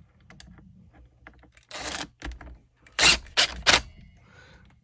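Nylon zip ties on a string trimmer's handle being pulled tight: a few light clicks, then four short ratcheting zips, the last three close together.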